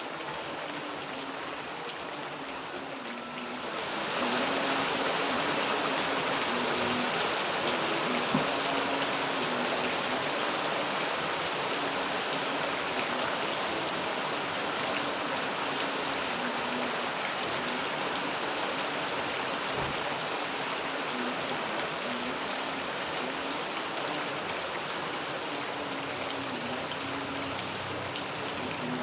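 Steady rainfall that grows heavier about four seconds in. Underneath is a faint low wavering hum, and there is one sharp click about eight seconds in.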